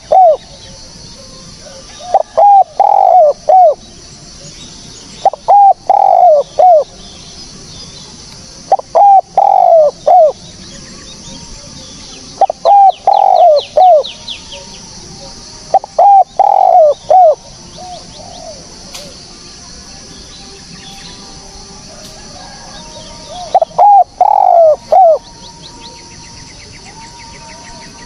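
Spotted dove cooing: loud phrases of three or four quick descending coos, repeated every three to four seconds, with a longer pause in the middle. Faint high chirps of a small bird come in twice.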